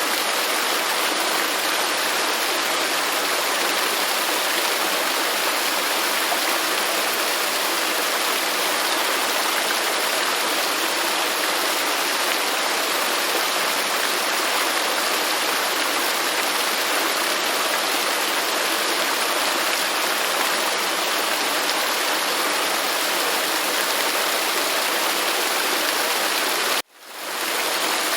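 Waterfall: steady rushing water, a full even hiss with little deep bass. Near the end it cuts out abruptly and swells back within about a second.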